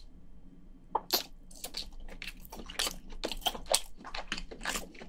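Close-up eating sounds of a person biting and chewing on a cooked king crayfish leg: irregular crunches and wet mouth clicks, starting about a second in.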